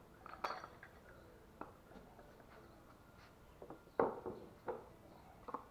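A few scattered, irregular clicks and light knocks of hand tools being handled and set against the washing machine's bearing housing, the loudest about four seconds in. This is not yet steady hammering.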